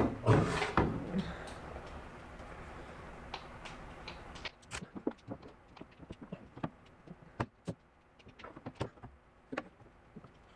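Hand work on sheet metal: a loud rustling clatter at the start, then scattered light clicks and taps from tools and metal being handled. A steady background hiss cuts off suddenly about four and a half seconds in.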